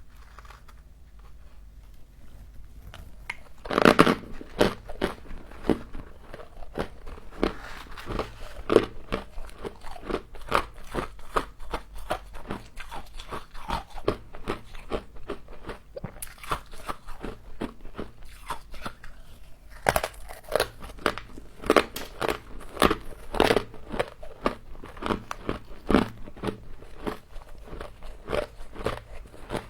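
A person biting into and chewing frost close to the microphone. There is a loud crunching bite about four seconds in, then a run of rapid crunches. After a short lull, another loud bite comes at about twenty seconds, followed by more crunching.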